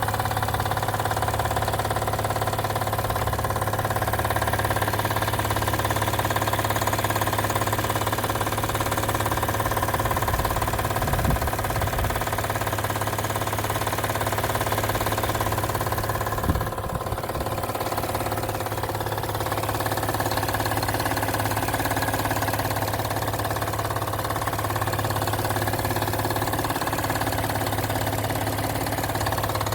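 Acura TL engine idling steadily with a loud noise at idle, a fault of unknown cause that brings no loss of performance. One brief bump a little past halfway.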